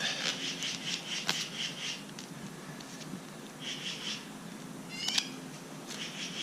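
Animal chirping: runs of rapid high-pitched chirps, about five a second, with a sharp falling call about five seconds in and a single click just after one second.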